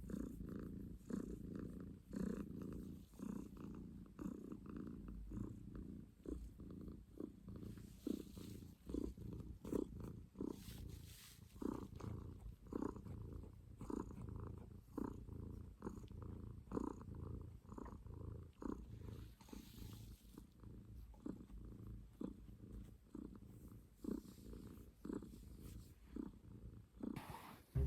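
Domestic cat purring, a faint low rumble that swells and fades in an even rhythm with each breath.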